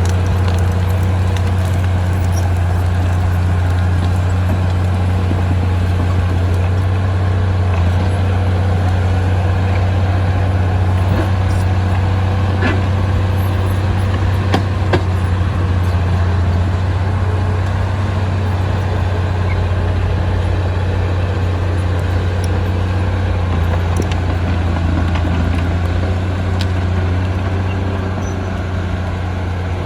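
Diesel engine of heavy earthmoving equipment running steadily with a strong low hum, with a few faint metallic clicks over it.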